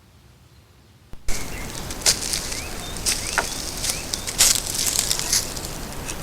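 Crackling and rustling with sharp clicks, with a few short rising bird chirps among them, starting abruptly about a second in.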